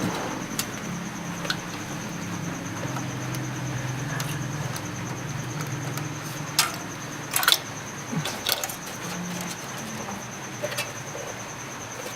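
A few sharp clicks and knocks of computer parts being handled as a desktop system unit is taken apart, mostly in the middle. Under them run a steady high-pitched whine and a low murmur.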